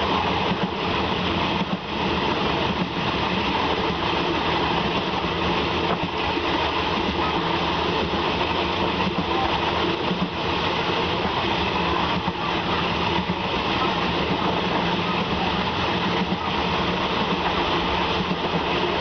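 A passenger train running steadily along the track: a constant rumble and hiss of wheels on rail, with a few faint, irregular knocks.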